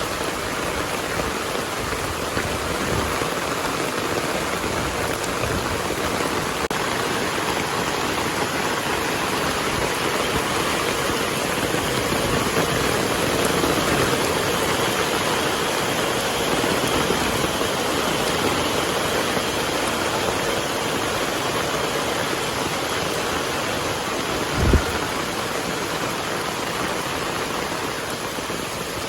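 Heavy rain falling steadily, a dense even hiss. Near the end there is one brief low thump, the loudest moment.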